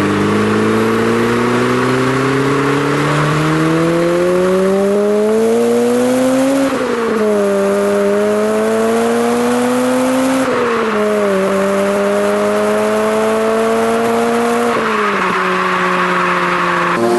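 Honda Integra DC5 Type R's K20A four-cylinder engine and exhaust accelerating hard through the gears. The pitch climbs steadily and drops at each of three upshifts, about 7, 10 and 15 seconds in, then holds roughly level near the end.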